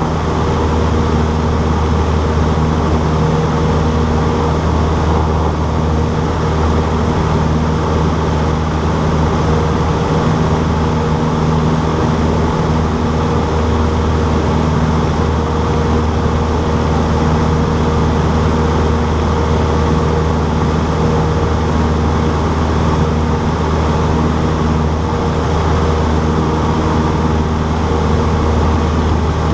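Cessna 152's four-cylinder Lycoming engine and propeller running steadily, a loud, even drone with no change in pitch.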